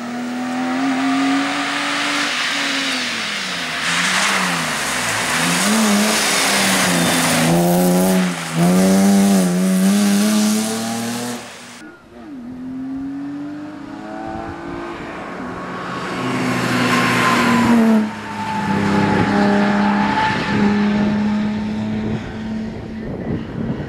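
BMW E30 rally car engine driven hard, its pitch climbing and falling again and again as the revs rise, drop at gearchanges and dip off the throttle, with strong noise over it for several seconds. About twelve seconds in, the sound drops off suddenly, then the engine picks up and climbs again.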